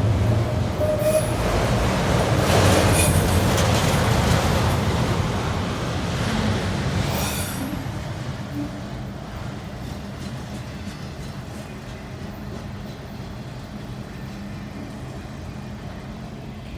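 Freight train rolling past, loud for the first seven seconds or so and then fading into a quieter, steady rumble with a low hum underneath.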